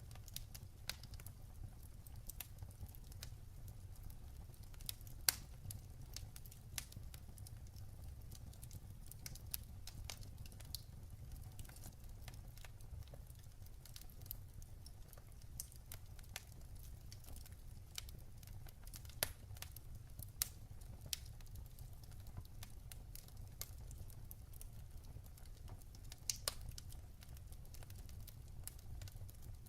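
Logs burning in a fireplace, crackling with many small scattered pops over a low steady rumble of the flames. A few pops stand out louder: about five seconds in, around twenty seconds in, and near the end.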